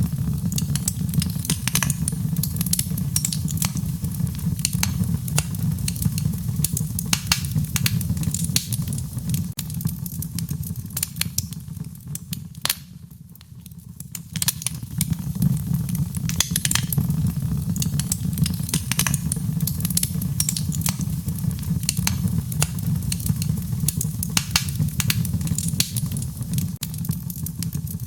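Wood fire crackling, with many irregular sharp pops over a steady low rumble. The crackling thins out and quietens briefly about halfway through, then picks up again.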